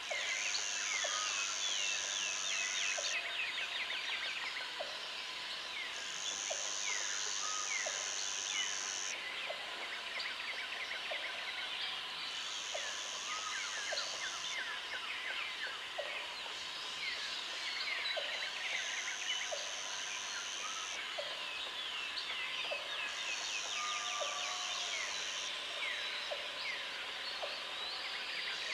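Tropical jungle ambience: many birds calling with quick falling chirps and whistles, over an insect's high buzzing trill that switches on for a second or three every few seconds. A steady thin insect drone and soft low notes about once a second run underneath.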